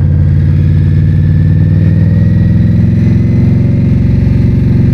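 2022 Indian Scout Bobber's V-twin engine running at low speed in first gear while riding slowly, its pitch rising gently.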